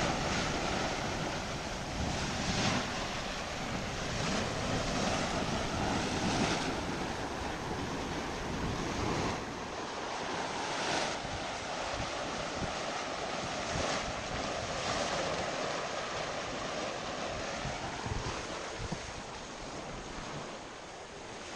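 Churning Cauldron hot spring churning and bubbling, a steady rushing splash of agitated water.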